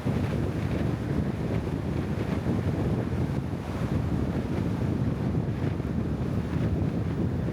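Wind buffeting the microphone over a steady low rumble of motion.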